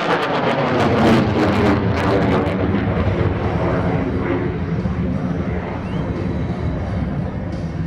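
F-16C Fighting Falcon's General Electric F110 turbofan at high power: a loud jet roar that crackles sharply for the first couple of seconds, then fades gradually as the fighter climbs away.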